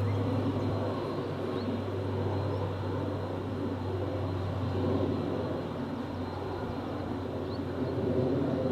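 Aircraft engine noise at an airport: a steady low hum with a faint high steady tone above it.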